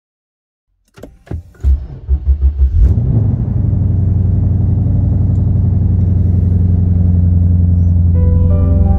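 2011 Lexus IS F's 5.0-litre V8, fitted with headers and a full Joe Z exhaust, starting up: a few sharp clicks and uneven cranking pulses, then it catches about three seconds in and settles into a steady idle at about 1,500 rpm.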